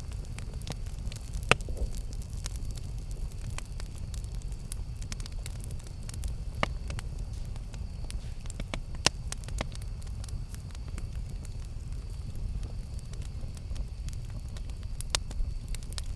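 Campfire burning: a steady low rumble of the flames with scattered sharp crackles and pops, a few louder snaps about a second and a half in, near the middle and near the end.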